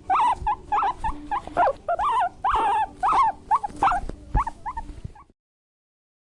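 Guinea pig squeaking: a quick series of short squeals, about three a second, that cuts off abruptly a little over five seconds in.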